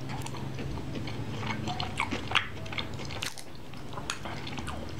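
Close-miked chewing and wet mouth sounds of a person eating, with scattered small clicks and smacks at irregular intervals, a few louder ones about halfway through.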